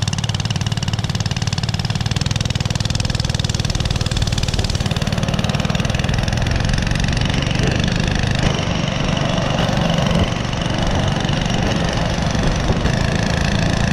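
Small gasoline engine running steadily and loudly.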